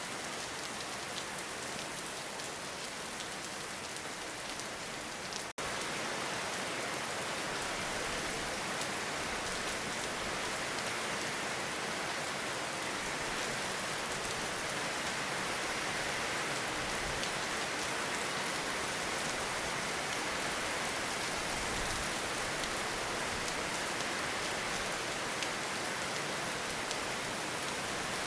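Steady rainfall: a dense, even hiss of drops with faint individual drop ticks. A momentary gap about five and a half seconds in, after which the rain runs slightly louder.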